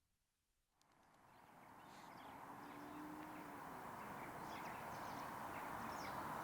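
Outdoor ambience fading in after a moment of near silence: a steady background hiss with small birds chirping faintly throughout.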